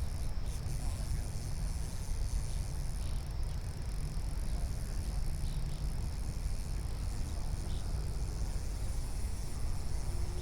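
Outdoor creekside ambience: a steady low rumble under a constant high-pitched drone of insects, likely crickets.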